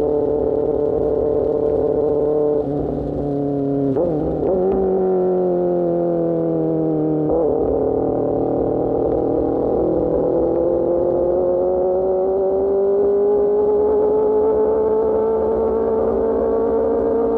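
Motorcycle engine running through an AR GP1R aftermarket exhaust while riding. The pitch changes abruptly a few times in the first half, then slowly climbs as the bike accelerates.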